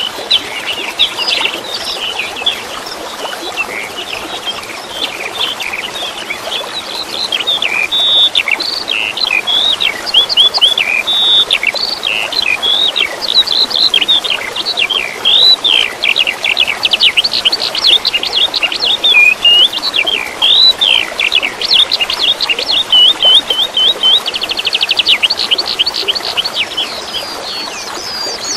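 Songbirds singing continuously: a dense mix of chirps, whistled phrases and trills, with a fast buzzy trill about three-quarters of the way through, over a steady hiss of running water.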